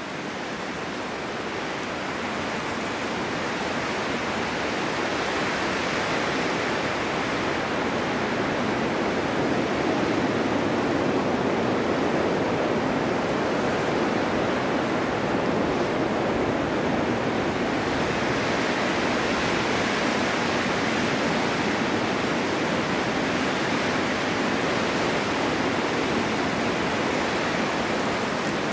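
Snowstorm wind blowing steadily, a continuous rushing hiss that slowly swells and eases, fading in over the first few seconds.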